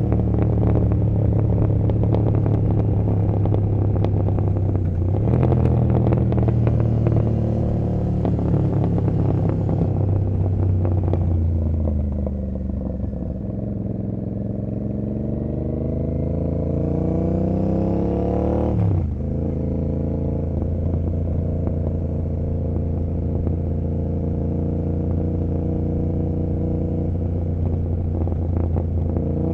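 Royal Enfield Continental GT 650's 648 cc parallel-twin engine running through Emgo cafe mufflers while riding. The engine note rises and falls with the throttle, climbs steadily and then drops sharply at a gear change about two-thirds of the way through, and then holds steady.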